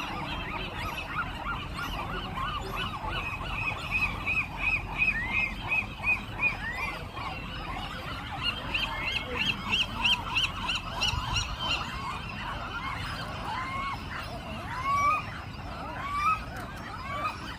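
A large seabird nesting colony calling: many birds at once, with fast runs of short repeated calls and single rising calls overlapping throughout.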